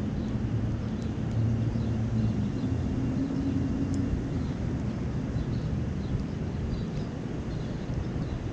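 Steady low rumble of engine noise, with a wavering hum that is strongest in the first half and fades about halfway through.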